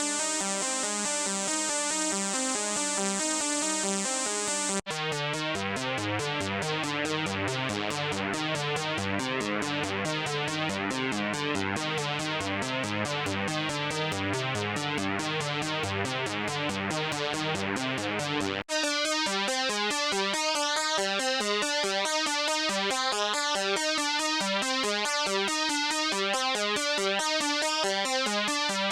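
u-he Podolski software synthesizer playing factory presets as repeating sequenced note patterns. It switches to a new preset twice, with a brief gap about five seconds in and again near nineteen seconds; the middle preset carries a heavy bass line under fast repeated notes.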